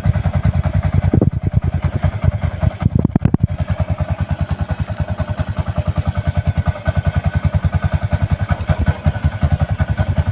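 Yamaha YTX 125's single-cylinder four-stroke engine idling through a kalkal exhaust (stock muffler hollowed out), giving a loud, rapid, even popping, with short throttle blips at about one second and three seconds in.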